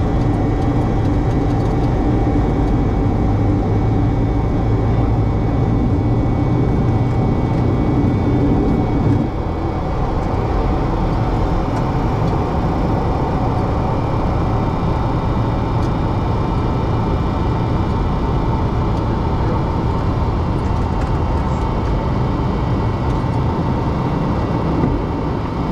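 Boeing 737-200 flight-deck noise in the climb after takeoff: a steady, loud rush of air and engine noise from its Pratt & Whitney JT8D engines. About nine seconds in, a low hum drops out and the noise gets a little quieter.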